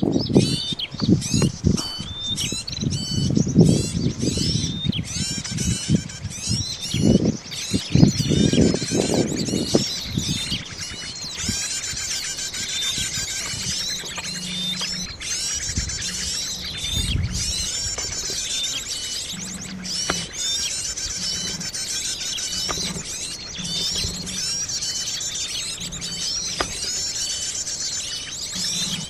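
Several small birds chirping and trilling over and over, with low thumps and rustling during the first ten seconds or so.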